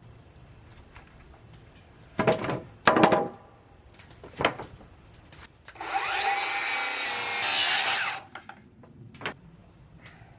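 Cedar boards clattering as they are handled, then a saw cutting through cedar for about two seconds, starting about six seconds in, followed by a single knock.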